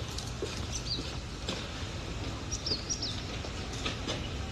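Small birds chirping: a few short high chirps about a second in and a cluster of them around the middle, over a steady low rumble, with a few faint footsteps.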